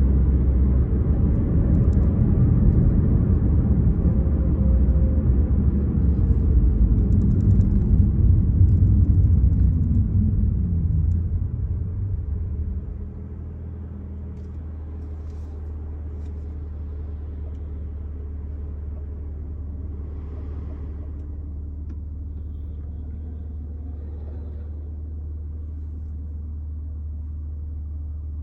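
BMW M4 Competition's twin-turbo straight-six running on the move, its note falling steadily as the car slows. About 13 s in it drops to a quieter, steady idle.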